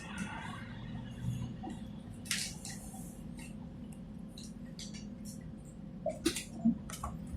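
Quiet tram interior: a steady low hum with scattered light clicks and rattles.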